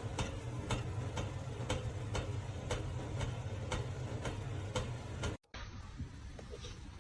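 Regular ticking, about two ticks a second, over a steady low hum. It stops abruptly about five seconds in, leaving faint room sound with a couple of soft knocks.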